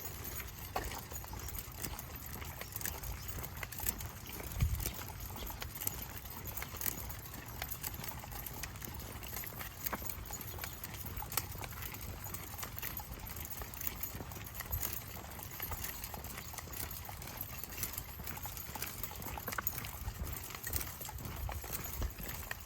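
Steady walking footsteps of a person and a pack of dogs on a trail, a continuous patter of small clicks and knocks over a low rumble.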